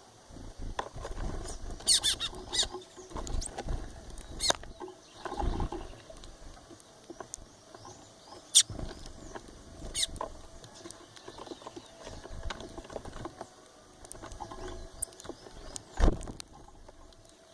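Birds moving about in a bird house: scattered taps and rustles, with a few short high calls about two seconds in.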